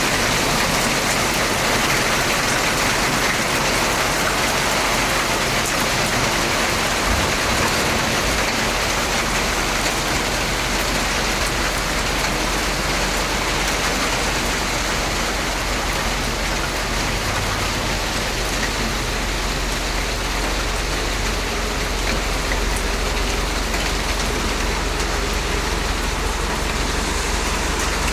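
Heavy rain falling steadily in a downpour: a dense, even rush of countless drop impacts. A low rumble sits underneath from about eight seconds in.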